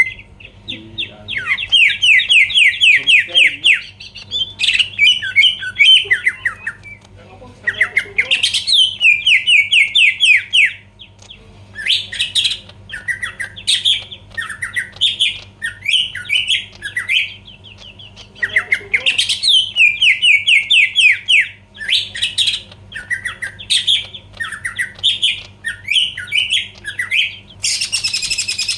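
Cucak ijo (green leafbird) in full, vigorous song: loud phrases of rapid repeated sweeping notes, a few seconds each, with short pauses between them. A faint steady hum lies underneath.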